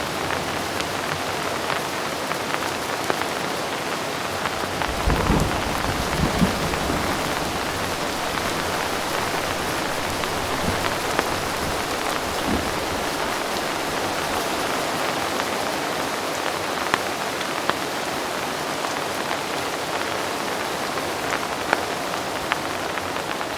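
Heavy rain falling steadily, a dense even hiss with scattered sharper drop ticks. A brief low rumble of distant thunder comes about five seconds in.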